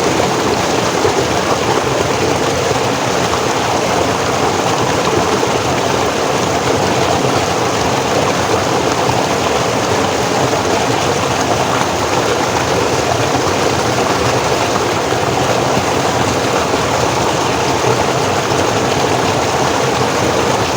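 Forest stream flowing steadily over rocks, a continuous even rush of water.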